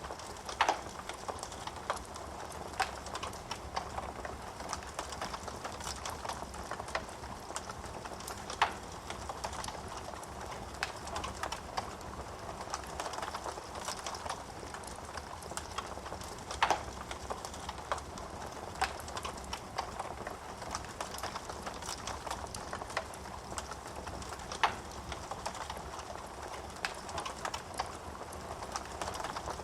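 Wood fire burning in a fireplace: a steady hiss of flames with constant small crackles and a few sharper pops of burning wood, the loudest about every eight seconds.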